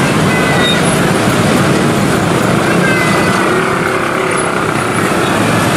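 Passenger train coaches rolling away over curving junction track: steady wheel-on-rail noise, with faint high squeals from the wheels on the curve.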